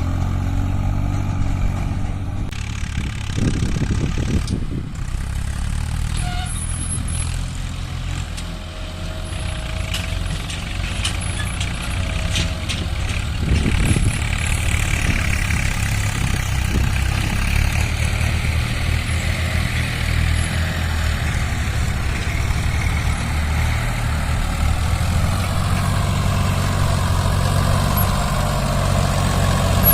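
Tractor diesel engine running, a steady low drone throughout.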